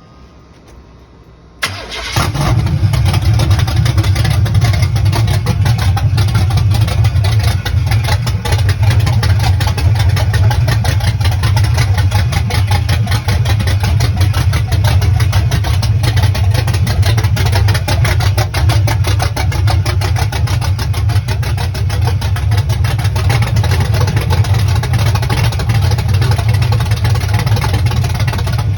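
A small-block Chevy V8 on open headers with no exhaust fires up suddenly about a second and a half in, then keeps running loud and steady.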